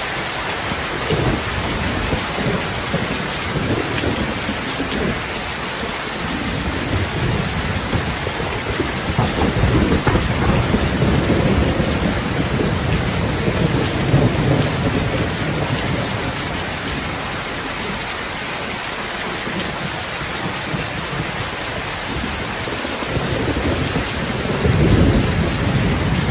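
Steady heavy rain, with low rolling thunder rumbling up several times.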